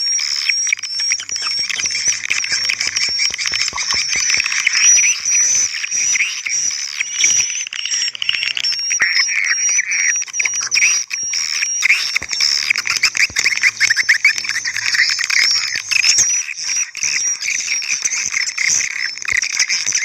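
Swiftlet lure recording playing: dense, continuous twittering chirps of swiftlets over a wavering high tone, a call track and a roosting track mixed together.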